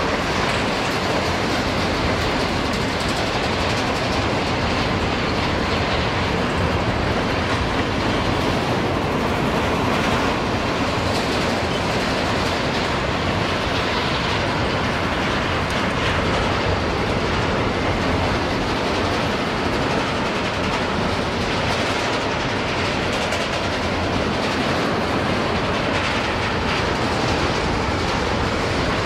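Freight train of steel grain hopper cars rolling past close by: a steady, unbroken rumble of wheels on rail, with the wheels clacking as the cars go by.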